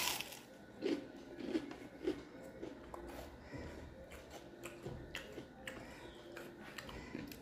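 Close-miked bite into a piece of fried food, with a sharp crunch at the start and a few loud crunchy chews over the next two seconds. After that come quieter chewing and small wet clicks as fingers mix rice with fish curry.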